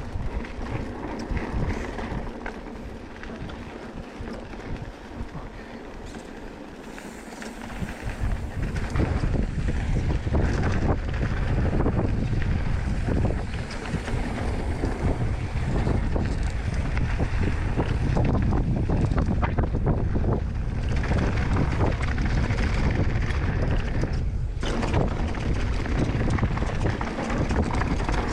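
Wind buffeting the microphone and the bike rattling over rough trail as a mountain bike rides downhill. The low wind rumble grows much louder about eight seconds in as the bike gathers speed.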